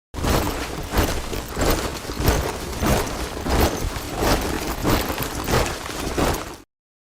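A troop of soldiers marching in step, many boots striking together at a steady cadence of about three steps every two seconds. It begins and stops abruptly.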